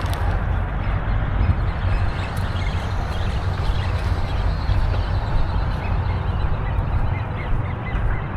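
A steady low rumble, with faint calls of waterfowl on the pond, a few short notes coming near the end.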